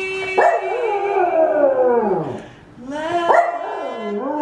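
Dog howling along with a woman's singing. A held sung note ends about half a second in as the dog gives a long howl that starts high and slides down, fading out after about two seconds. Near the end the dog howls again, rising then falling, as the woman sings the next word.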